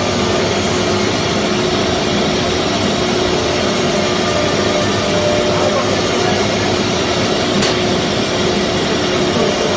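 CNC router running: a steady machine noise with a constant high whine from its spindles.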